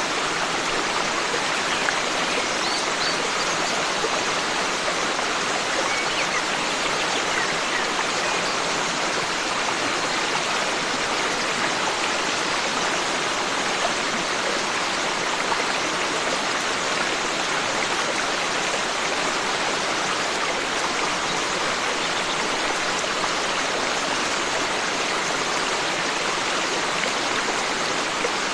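Forest stream running, a steady even rush of flowing water.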